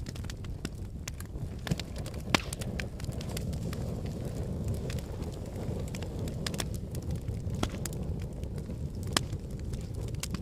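Wood fire burning in a fireplace: a steady low rumble of flames with irregular sharp crackles and pops from the burning logs, two louder pops about two seconds in and near the end.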